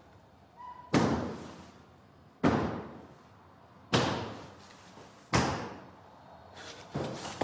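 Four heavy bangs, about one every second and a half, each ringing out with a long tail, followed near the end by a scatter of smaller knocks and clatter.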